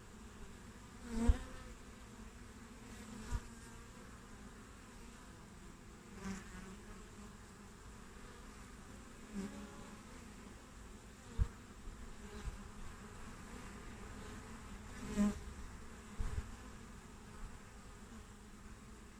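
Honey bees buzzing at a hive entrance: a steady hum of the colony with individual bees flying close past the microphone, the loudest about a second in and again near the end, and a few faint low thumps.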